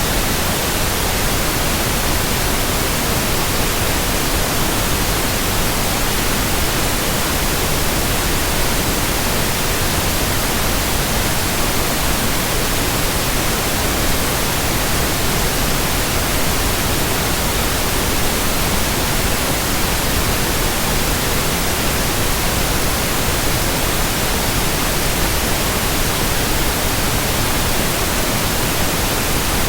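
Steady white-noise hiss, even across the whole range from deep to very high, with no rhythm, no hum tones and no changes.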